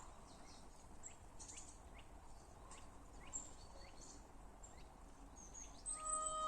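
Small birds chirping faintly, short quick calls over a quiet outdoor background. Music with long held notes comes in near the end.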